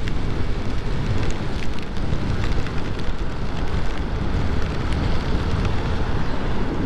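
Honda Navi's small single-cylinder engine running while riding, under steady wind noise on the microphone, on a rain-wet road.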